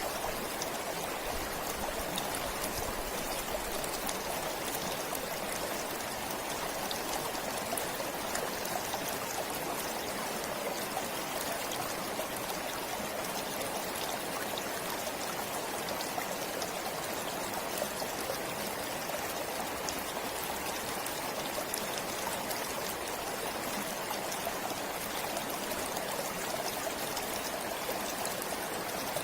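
A forest stream flowing steadily: an even, unbroken rush of running water with fine trickling detail.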